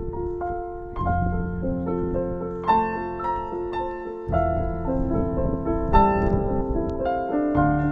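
Background piano music: a slow melody of single notes over sustained low bass notes.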